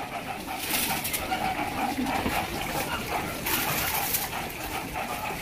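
Birds cooing, with low short calls repeating over and over.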